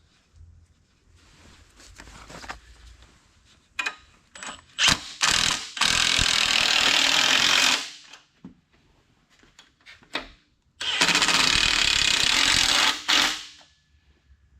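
Impact wrench run in two bursts of two to three seconds each, with a few sharp clicks just before the first, fastening bolts on a corn head during reassembly.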